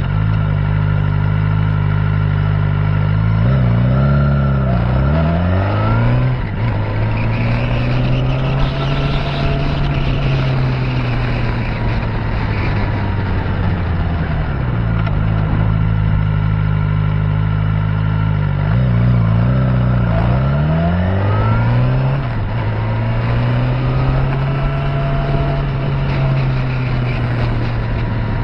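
Suzuki GSX-R600 inline-four motorcycle engine running under way, heard from a camera on the bike's mirror arm. The engine note holds steady for stretches and twice swings quickly up and down in pitch, about four seconds in and again near twenty seconds in.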